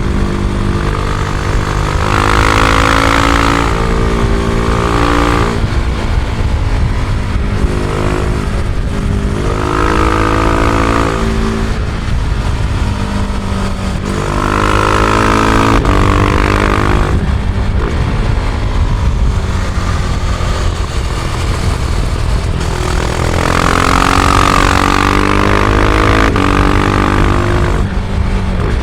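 Husqvarna Vitpilen 701's single-cylinder engine running on stock exhaust while riding, rising in revs four times under acceleration and easing off between. The engine is heard from a recorder carried in the rider's backpack.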